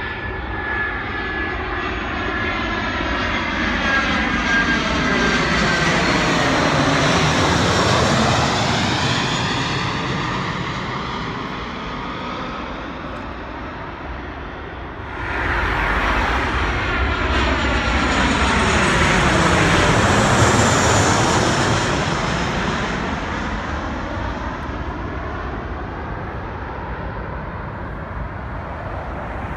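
Jet airliners passing one after another: the first swells and fades over about fourteen seconds with a high whine on top, and the second starts suddenly about fifteen seconds in, is loudest around twenty seconds, then fades.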